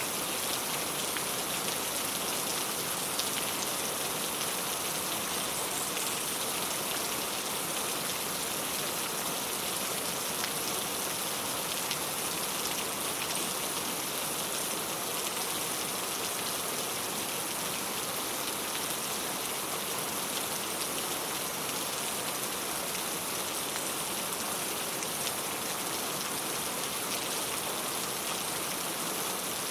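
Steady rain falling on a clay tile roof, a dense, even patter of drops that holds at the same strength throughout.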